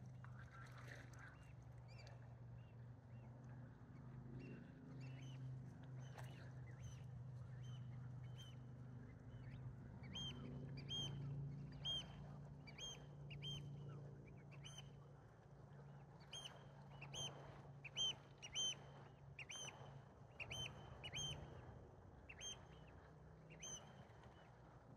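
A bird gives short, high calls over and over, roughly one or two a second, from about ten seconds in, above a steady low hum.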